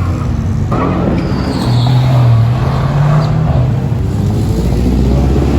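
A car engine running loudly, its pitch climbing as it revs up about two seconds in, over a steady low rumble.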